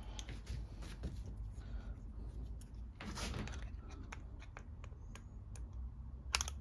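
Light clicks and scrapes of a hand tool and small carburetor parts being handled, with a short rustle about three seconds in and a sharper click near the end, over a steady low hum.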